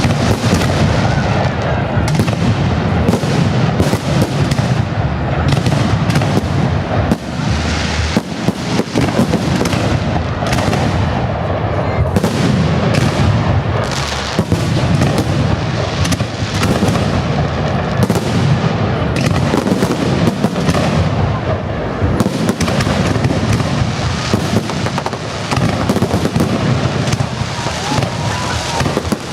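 Fireworks salute: a dense, unbroken barrage of shell bursts and crackles.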